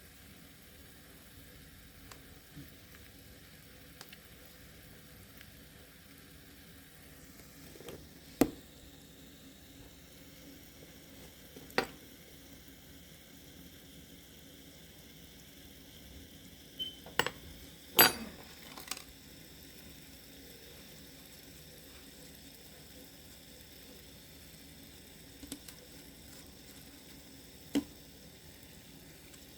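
Alka-Seltzer tablets fizzing in a jar of water and paint under a layer of oil: a faint steady fizz. Several sharp clicks or taps break in, the loudest a cluster about eighteen seconds in.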